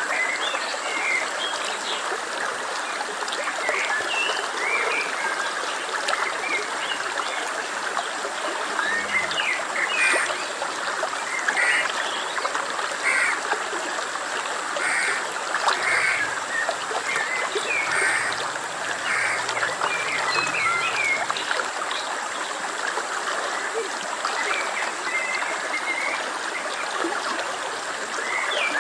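A stream flowing steadily, with many short, high chirping calls from small animals scattered all through it.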